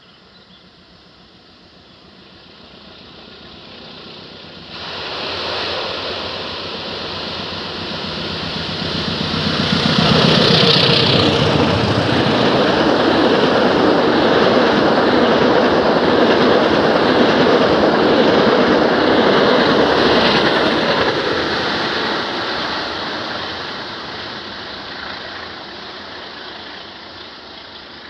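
Diesel-hauled passenger train passing close by: the sound builds, rises sharply about five seconds in, is loudest from about ten to twenty seconds in as the locomotive and coaches roll past, then fades away.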